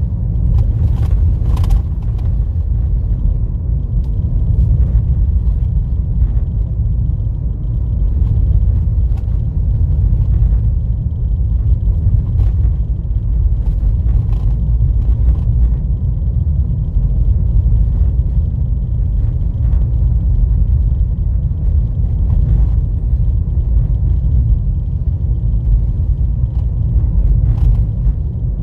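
Car driving on a rough dirt road: a steady low rumble of tyres and suspension, with occasional knocks from bumps and potholes.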